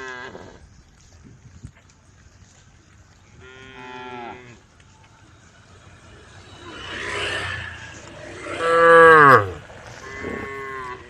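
Cows mooing, several separate calls a few seconds apart. The loudest comes near the end and drops in pitch as it ends.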